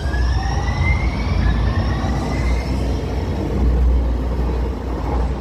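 Muni Metro Siemens light rail train pulling out, its traction motors giving a whine of several tones that rise steadily in pitch over a heavy low rumble.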